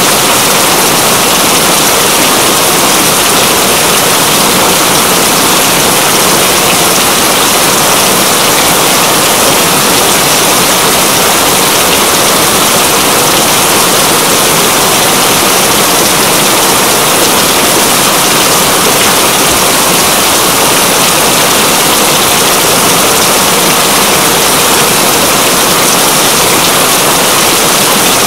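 Steady rain: a dense, even hiss that does not let up.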